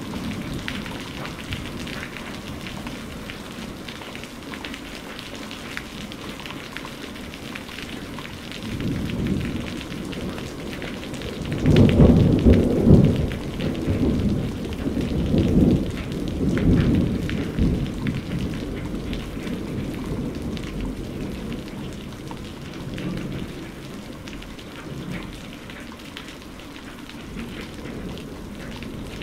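Steady rain falling on a surface, with a long rumble of thunder that swells about a third of the way in, peaks, and rolls away over several seconds; a fainter rumble comes near the end.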